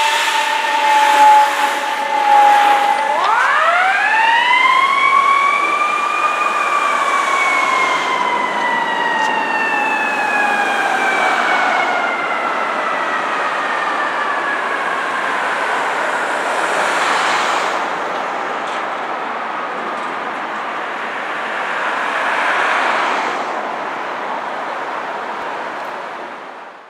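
Fire engine siren. It winds up steeply about three seconds in, then falls slowly in pitch over the next twenty seconds, growing fainter near the end.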